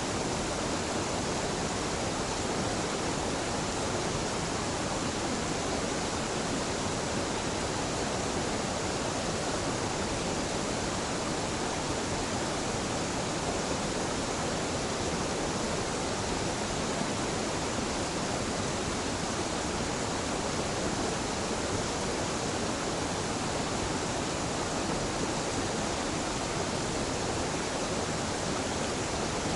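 Small mountain waterfall pouring steadily, a continuous even rush of falling water.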